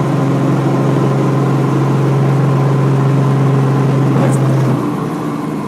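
Robinson R44 helicopter running with a steady, loud drone and a strong low hum; about five seconds in the hum drops away and the sound gets quieter.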